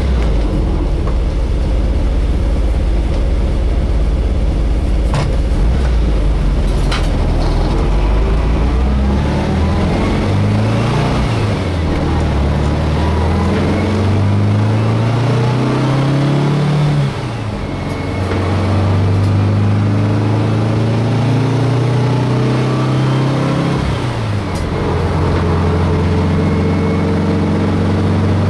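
Inside a moving VW bus: low road and wind rumble, then its 1600 air-cooled flat-four engine pulling up through the gears, its pitch climbing and dropping sharply at each shift, about twice, before settling to a steady cruise.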